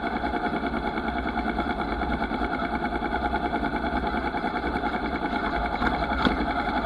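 Motorcycle engine running steadily, with a couple of faint clicks about six seconds in.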